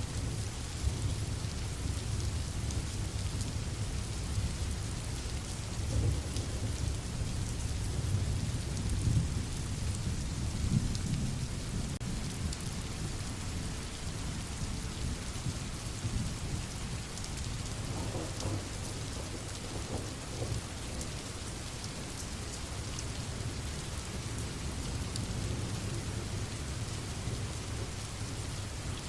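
Steady rain falling, with low rolling thunder rumbling underneath, heavier in the first half and easing off later.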